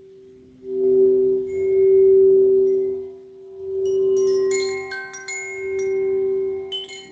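A singing bowl sounding a steady low tone that swells and fades in slow waves. About four seconds in, a shower of high, bright chime notes joins it, wind chimes brushed into ringing.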